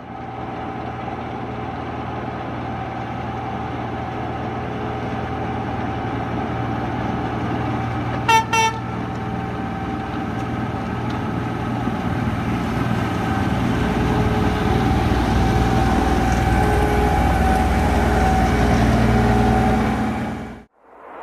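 A locomotive runs with a steady drone that grows a little louder toward the end, and its horn gives two short toots about eight seconds in.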